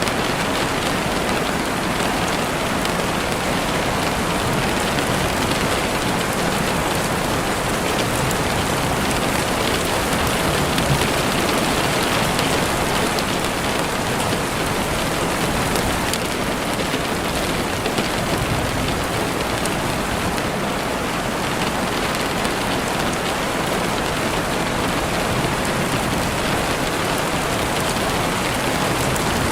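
Heavy rain beating steadily on a window, a dense, even patter with scattered sharper drop ticks.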